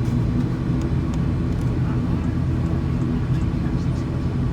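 Steady low drone of an ATR 72-600's turboprop engines and propellers running, with a few faint clicks.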